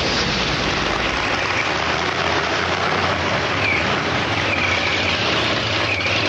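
Supercharged V8-style engines of a tractor puller running, a loud, steady roar with no let-up.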